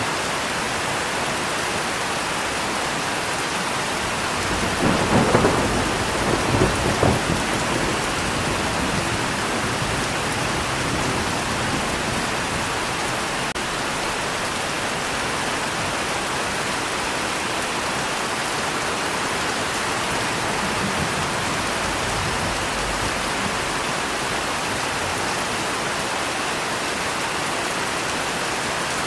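Steady heavy rain, with a crack and rumble of thunder about five seconds in that dies away within a couple of seconds.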